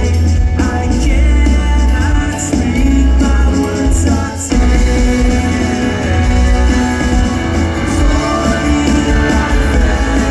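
Live shoegaze rock band playing loud, with distorted guitars, bass and drums and a sung vocal over them; the sound drops out for a moment about four and a half seconds in.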